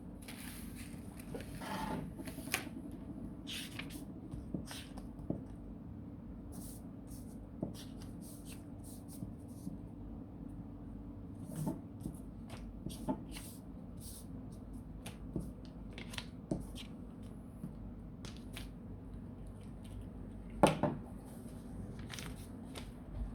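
Paper and cardboard being handled: scattered short rustles, taps and clicks as a glued paper design is pressed onto cardboard, with one sharper click about three-quarters of the way in. A steady low hum runs underneath.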